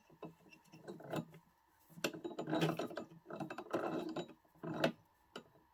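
Metal parts of a locomotive's traction motor and gear drive being worked by hand, with gears grinding and clicking in several short bursts.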